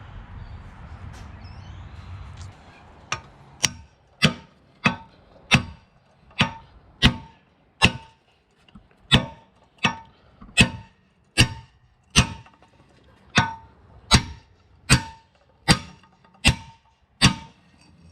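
A hammer striking steel, about nineteen evenly spaced blows at roughly one and a half a second, each with a short metallic ring. A low steady hum comes first, before the blows begin.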